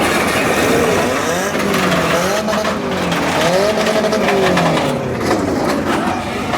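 A car engine revving up and down several times, its pitch rising and falling in repeated sweeps, over a steady noise of engines and tyres.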